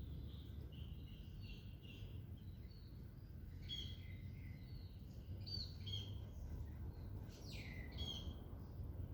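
Several small birds chirping and whistling in short repeated phrases, one call sweeping down in pitch about three-quarters of the way through, over a steady low background rumble.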